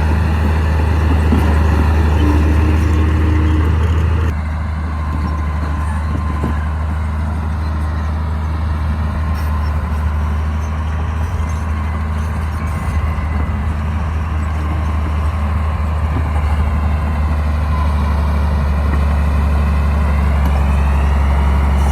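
Crawler bulldozer's diesel engine running steadily with a strong low hum, the sound dropping slightly about four seconds in.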